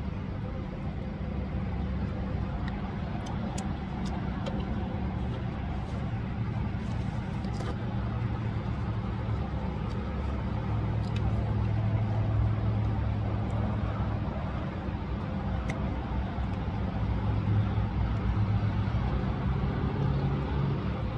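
Steady low hum of an idling vehicle engine, with a few faint clicks over it.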